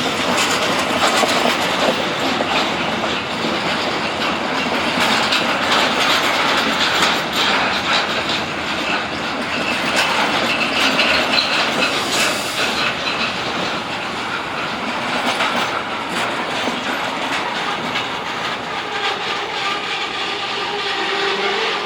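A train rolling past at close range, its wheels clattering steadily over the rail joints, with a faint high squeal of wheels on the rails now and then.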